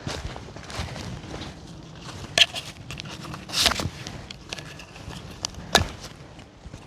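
Footsteps crunching irregularly through wet forest litter of leaves and twigs, with a few sharper, louder cracks along the way.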